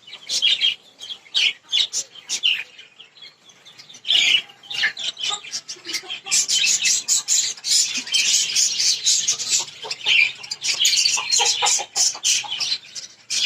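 A flock of small caged birds (lovebirds, finches, cockatiels and budgies) chirping and chattering shrilly. Scattered chirps become a dense, continuous chatter about halfway through.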